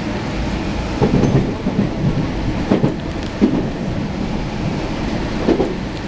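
Cabin running noise of a JR Central 313 series electric train: a steady low rumble of wheels on rails, with a few louder knocks from the track about a second in, near the middle and near the end.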